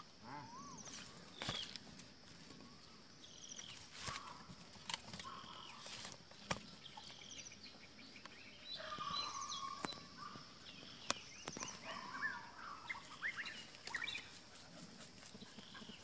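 Birds chirping and calling in short, quick whistled notes over a steady high-pitched buzz, with a few sharp clicks along the way.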